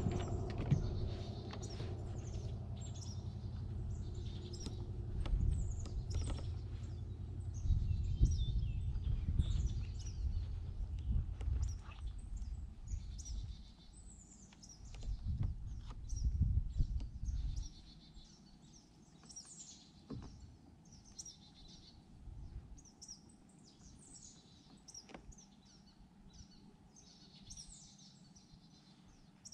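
Several birds chirping and calling again and again around the lake. Under them a louder low rumbling noise with a few knocks dies away a bit past halfway, leaving only the bird calls.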